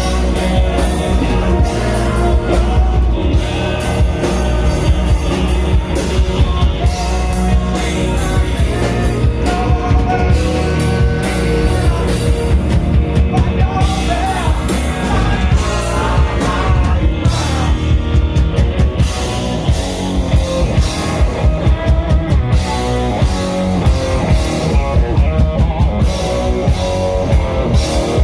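Rock band playing a song: a drum kit keeping a steady beat under electric guitar, loud and continuous.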